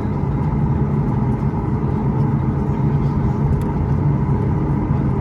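Steady cabin noise inside a Boeing 737 MAX 8 airliner: an even rumble of its CFM LEAP-1B engines and airflow with a constant low hum, unchanging throughout.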